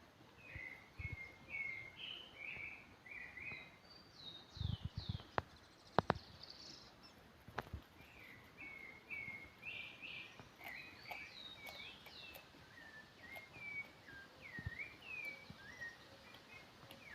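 Wild birds calling throughout, a stream of short repeated chirps and downward-sweeping notes, with a few sharp clicks and low thumps about five to eight seconds in.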